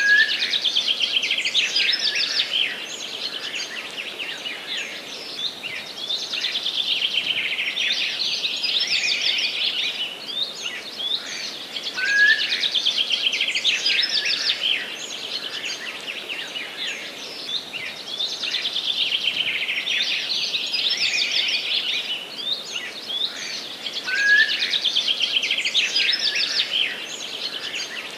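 Dense chorus of many songbirds in a forest, with fast overlapping chirps and trilled phrases that swell and ease off again about every twelve seconds.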